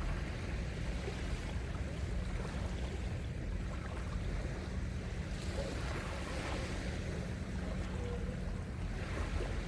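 Steady wash of sea surf on a beach, with wind rumbling on the microphone and a few faint, distant voices.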